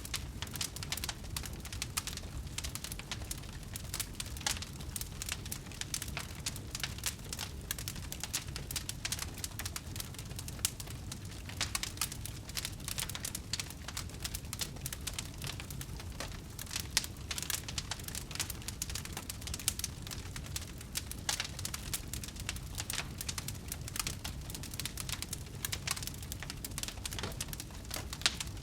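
Wood fire burning with dense, steady crackling and scattered louder pops over a low rumble.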